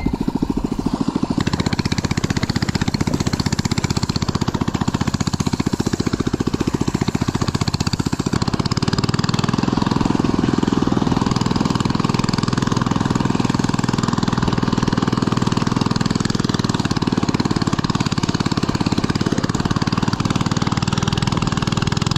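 Small engine running steadily with a rapid, even putter, growing louder and fuller about nine seconds in.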